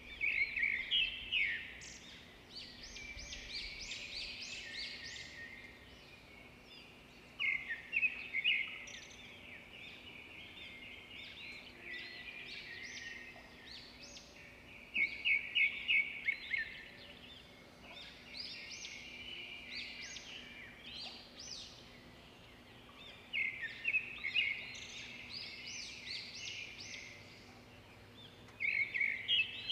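Birdsong: a bird repeats a quick, high chirping trill about every seven or eight seconds, with softer twittering between phrases.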